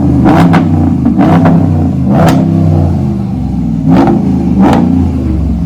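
Dodge Ram Rebel pickup's engine, breathing through a freshly fitted Borla S-Type cat-back exhaust, revved in repeated blips. The pitch climbs and falls with each blip, and several short sharp cracks come through among the revs.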